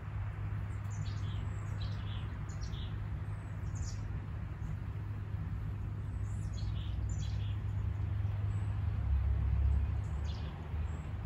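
Small birds giving short, high chirps every few seconds over a steady low rumble.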